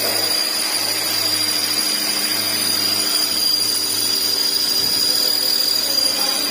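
Noise from a Maruti Swift AMT's gearbox with the engine running: a steady mechanical noise with a constant hum, which the mechanic takes for a broken clutch release bearing.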